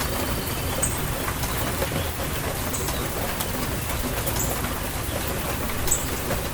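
Steady rainfall hissing and pattering, with a bird giving four short, high chirps a second or two apart.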